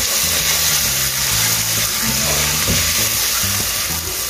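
Chopped onion, tomato and spices frying in oil in an aluminium pot, sizzling steadily while being stirred with a silicone spatula.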